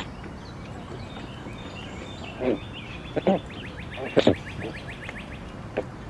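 Bird calls: several short, separate calls starting about two and a half seconds in, with a fast, rattling trill of about ten notes a second through the middle, over a steady outdoor hiss.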